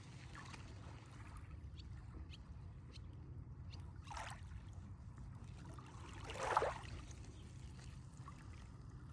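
Water splashing briefly twice, the second splash louder, over a steady low rumble.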